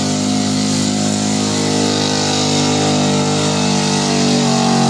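Pulling tractor's engine running hard and steady at high revs under load, its pitch easing slightly lower over the second half.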